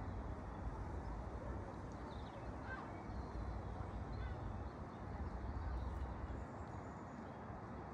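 Lakeside outdoor ambience: a steady low rumble with a few faint bird calls, mostly a couple of seconds in.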